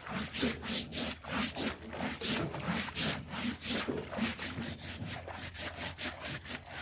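Fish trap being scrubbed clean by hand: a fast run of rough back-and-forth rubbing strokes, about three a second.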